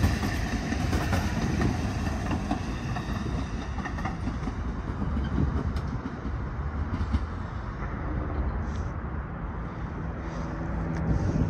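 DART light rail train of Kinkisharyo super light rail vehicles passing, a steady rumble of wheels on track with scattered light clicks, growing quieter and duller in the last few seconds.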